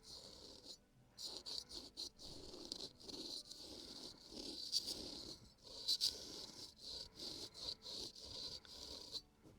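A razor scraping over the skin of a man's forehead in quick, short, crisp strokes, picked up close. The strokes stop briefly near the end.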